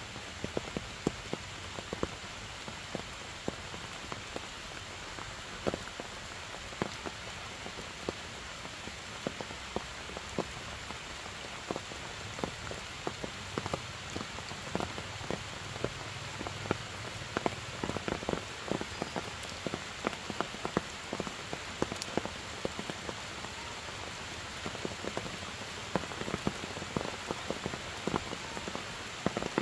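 Steady rain falling on forest leaves, a constant hiss with frequent close drops ticking irregularly.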